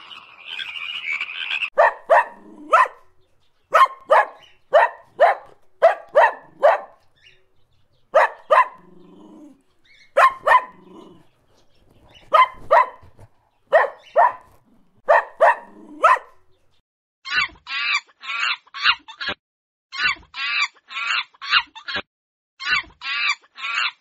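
A frog croaking for the first couple of seconds, then a dog barking in short runs of two to four sharp barks. From about seventeen seconds in, a different animal takes over with quick calls repeated in rapid runs of four or five.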